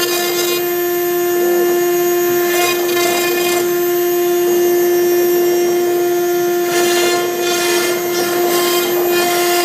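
CNC router spindle whining at a steady high pitch while a V-bit engraves MDF, with stretches of rougher cutting noise as the bit works through the board.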